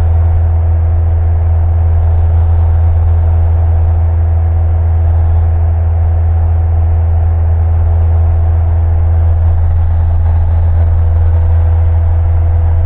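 Single-engine Cessna's piston engine and propeller droning steadily at an even power setting, heard from inside the cockpit.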